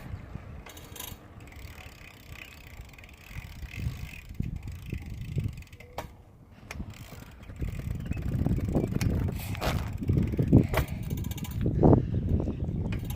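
Bicycle clicking and rattling as it is ridden, the unexplained noise this bike always makes, over a low rumble that grows louder about eight seconds in.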